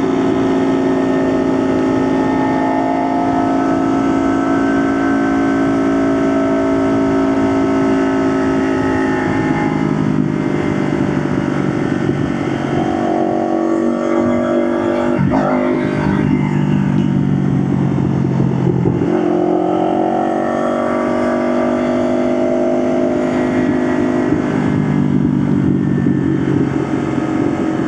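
Motorcycle engine running under way, its pitch holding steady at first, then falling and rising again several times as the throttle is eased off and opened. A single brief knock comes about halfway through.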